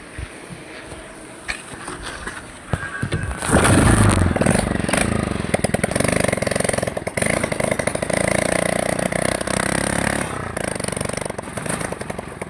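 A small engine starts about three and a half seconds in and runs with a rapid, even firing beat, after a few knocks.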